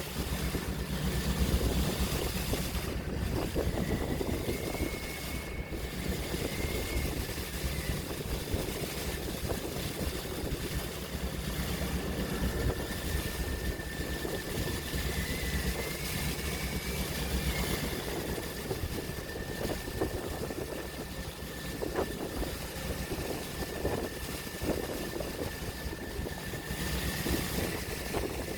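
Open-sea water rushing and washing under a steady low engine drone of a boat, with a faint high whine running through.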